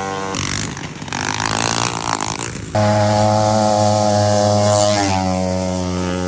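Small mower engines running at steady high speed, in a few short clips cut together, so the engine note changes abruptly about half a second, three seconds and five seconds in. The loudest stretch starts just under three seconds in.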